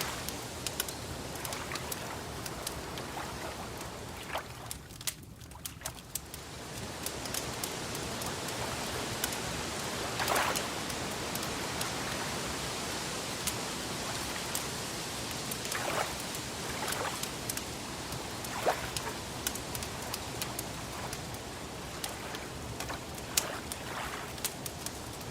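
Wood fire crackling: a steady hiss with many scattered small crackles and a few louder pops.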